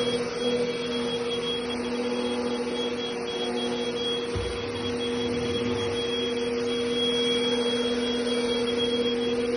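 Deerma VC20 Plus handheld vacuum cleaner running steadily: a constant motor hum with a faint high whine above it and a low bump about four seconds in.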